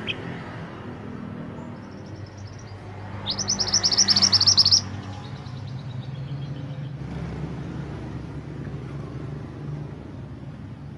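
Mantenan gunung songbird singing: a quieter rapid high trill about two seconds in, then a loud rapid trill around four seconds in, followed by a few soft notes. A steady low rumble runs underneath.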